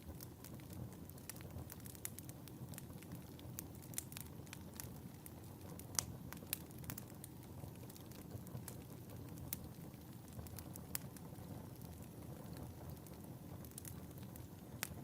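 Wood fire burning in a fireplace, with a steady low rumble of flames and frequent sharp, irregular crackles and pops; the loudest pop comes about six seconds in.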